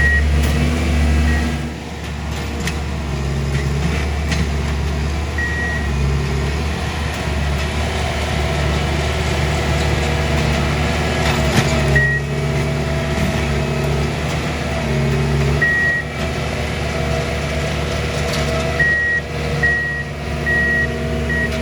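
Diesel engines of railroad track-maintenance machines running steadily, with short high warning beeps now and then and a quick run of them near the end. Occasional sharp metallic clanks, one about two seconds in and another louder one about twelve seconds in.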